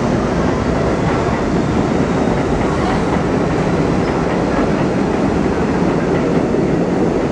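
Subway train running, a steady loud rumble of the moving train.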